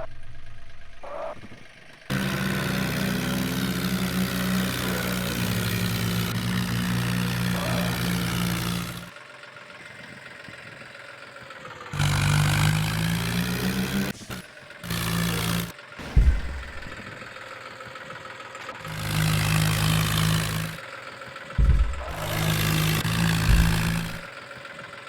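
Tractor engine running and revving in several separate bursts, cut off abruptly and restarting at different pitches, with pitch rising and falling as the throttle changes.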